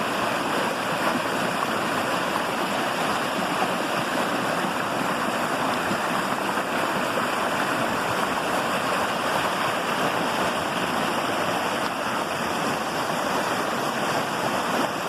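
Small brook running over rocks, a steady rushing of water.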